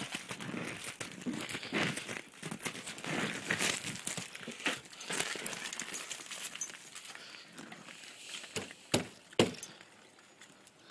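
A dog's claws scrabbling and clicking on ice as it slips for grip: irregular scratchy scrapes, with a few sharper clicks near the end.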